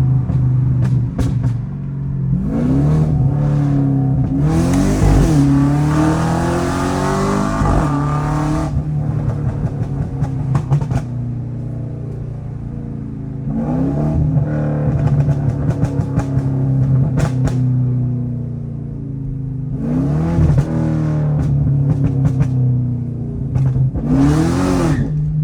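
Cadillac CTS-V's V8 revving up and dropping back several times over a steady running note, with bursts of sharp crackles and pops from the exhaust as the revs fall.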